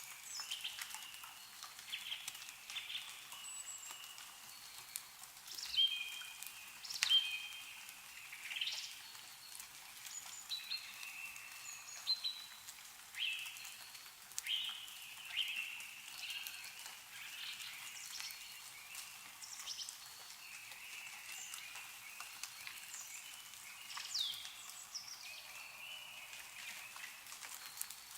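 Several songbirds chirping and calling in short, often downward-sweeping notes, over scattered drips of water falling from snow melting in the trees.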